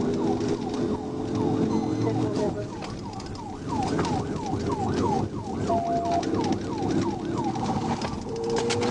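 Police cruiser siren on a fast yelp: a quick falling whoop repeated about three times a second, over a steady lower hum and road noise from the pursuing car.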